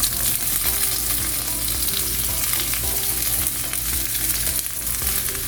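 Chopped vegetables (carrot, red bell pepper, celery, bok choy) sizzling in hot oil in a wok, the sizzle starting suddenly as they go into the pan and then holding steady.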